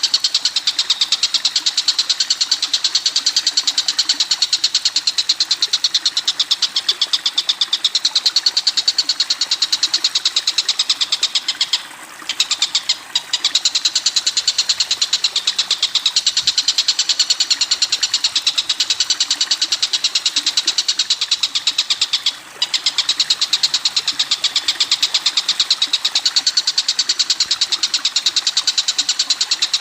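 Recorded bird song for training cage birds: one continuous, very rapid, high chattering trill, breaking off briefly about 12, 13 and 22 seconds in.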